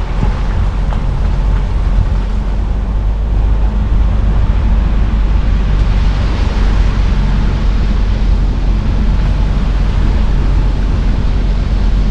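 A car driving: steady low rumble of engine and road noise, with a hiss on top.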